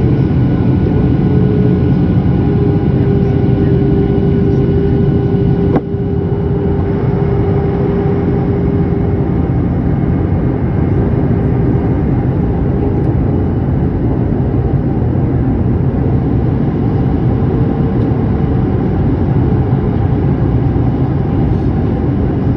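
Steady roar of a passenger jet's engines and airflow heard inside the cabin during the landing approach, with a few steady tones in it. A sharp click comes about six seconds in, after which the sound drops a little.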